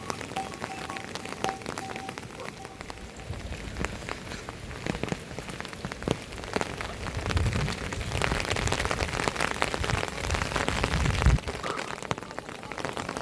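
Heavy rain falling, with many separate drops striking hard surfaces close by. A low rumble swells through the middle and cuts off suddenly near the end.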